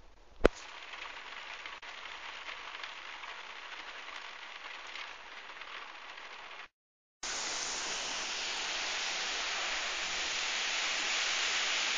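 Heavy storm rain falling, a steady hiss, with one sharp click about half a second in. The sound cuts out for a moment about seven seconds in and comes back louder.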